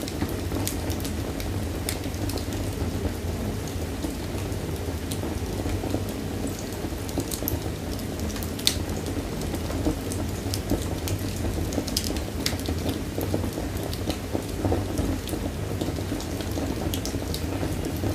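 Wood fire burning in a fireplace: a steady low rumble and hiss of the flames with irregular sharp crackles and pops, a few a second.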